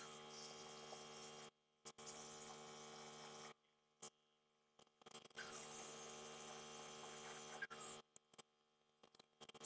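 A quiet, steady hum of several held tones with a hiss above it, cutting out and back in abruptly a few times.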